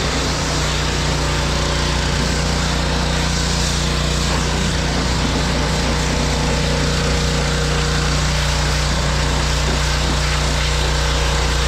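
An engine running steadily at an even speed, with a constant low hum under a rushing noise.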